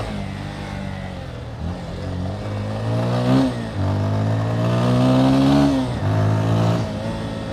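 Motorcycle engine pulling through the gears: its pitch climbs, then drops at each gear change, several times over.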